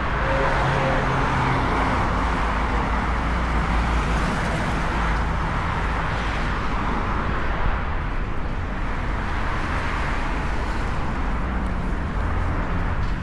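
Road traffic on a city street: a steady wash of car engines and tyre noise with a low rumble, swelling and easing as vehicles pass.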